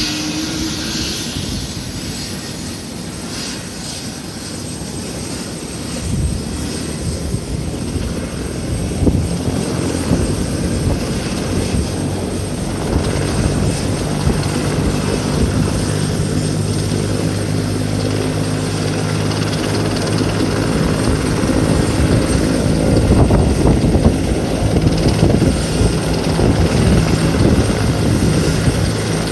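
Air-ambulance helicopter running, its engine and rotor noise growing gradually louder. Steady low humming tones come in about halfway through.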